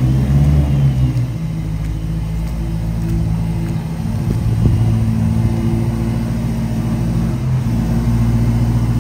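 Supercharged BMW M3 E90's V8 running at low revs as the car rolls slowly, a steady deep rumble. The pitch shifts slightly a couple of times.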